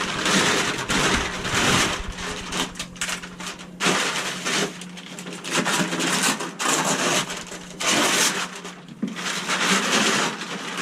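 Rustling and clattering in repeated bursts, with sharp knocks and clicks, as household items are handled, taken down and moved out of the way.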